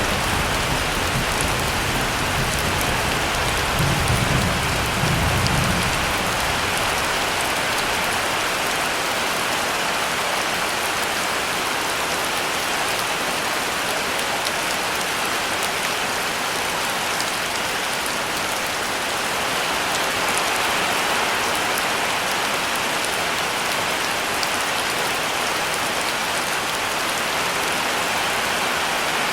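Steady heavy rain, with a low rumble of thunder in the first few seconds that swells about four seconds in and dies away by about six seconds.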